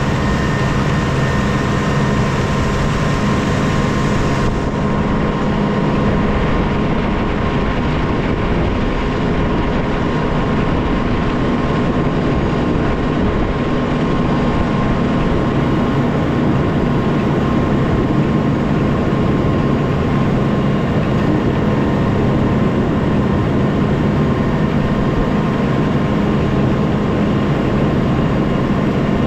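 Snow-plowing vehicle's engine running steadily under load: a constant drone with a few steady humming tones over it.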